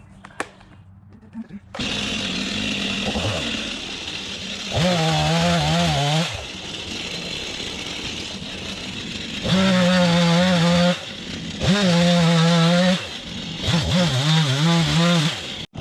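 Gas-powered Stihl saw engine that comes in suddenly about two seconds in, running steadily and rising to high revs four times for a second or so each.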